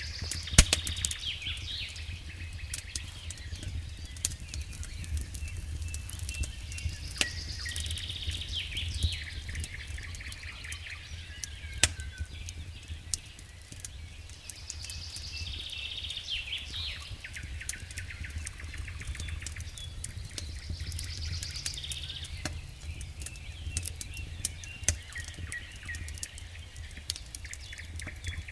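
Campfire crackling with frequent sharp pops, over a steady low rumble. A songbird sings short high phrases four times, about every six or seven seconds.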